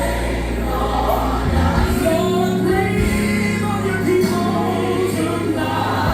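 Gospel music: singing with a choir over a band, held bass notes underneath that change about one and a half seconds in.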